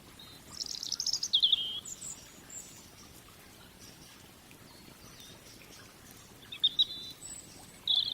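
Songbird singing: a quick run of high notes that falls in pitch about a second in, then a few short chirps near the end, over a faint steady background hiss.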